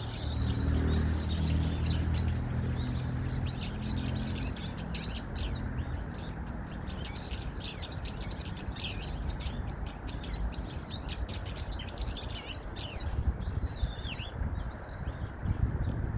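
Small birds chirping rapidly and noisily, many short sweeping calls overlapping, thinning out near the end. A low rumble sits under them in the first few seconds.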